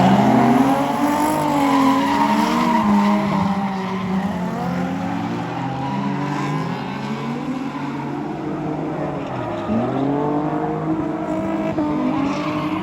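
Car engines revving, several at once, their pitch rising and falling.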